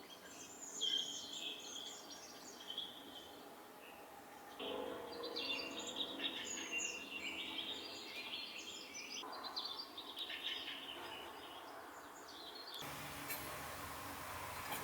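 Birds chirping and calling over outdoor background noise, the chirps coming in short, quick runs. About 13 seconds in, the birdsong gives way to a steady hiss.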